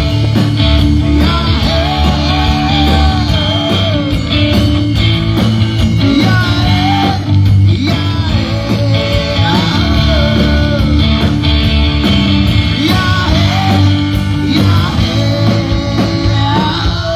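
Live rock band playing, with a bending lead guitar line over bass and drums.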